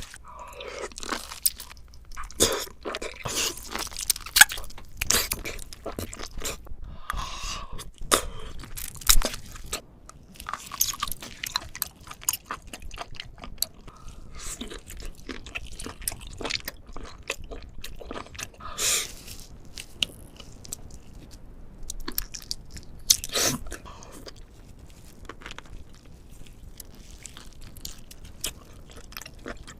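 A person biting into and chewing crisp food: irregular sharp crunches throughout, with a few louder bites now and then.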